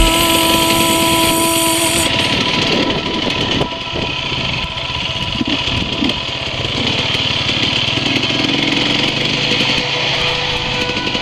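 Enduro dirt-bike engine running at low trail speed, the throttle rising and falling, under a steady rushing noise. Electronic music cuts off about two seconds in.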